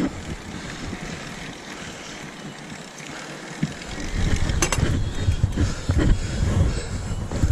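Mountain bike riding downhill on a dirt trail: tyres rumbling over rough ground with rattles and knocks from the bike. The rumble gets much louder about four seconds in as the ride speeds up or the ground gets rougher.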